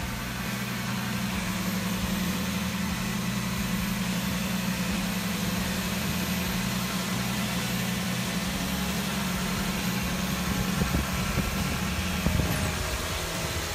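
A Toyota 4.7-litre i-Force V8 idling steadily and smoothly, a steady low drone. Two brief knocks come near the end.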